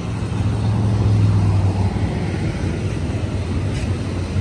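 Double-stack container train rolling slowly past: a steady low rumble of wheels on rail with a low engine drone that is strongest in the first couple of seconds.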